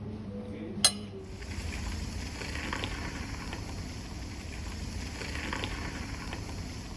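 A sharp click, then a chorus of cicadas starts abruptly and keeps up a steady, high-pitched drone over a low rumble.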